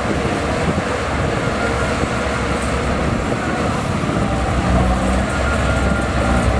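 Heavy diesel engine of earthmoving machinery running steadily, with a steadier low engine note from about four and a half seconds in.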